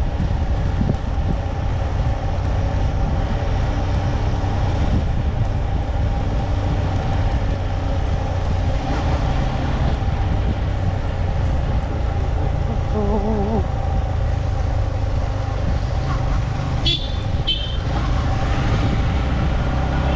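Motorcycle running along the road, a steady low rumble of engine and wind on the microphone. A brief wavering tone sounds about two-thirds of the way through, and a horn gives two short high beeps about three seconds before the end.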